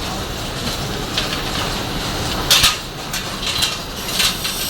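A steady low mechanical rumble with intermittent sharp metallic clanks and rattles, the loudest about two and a half seconds in.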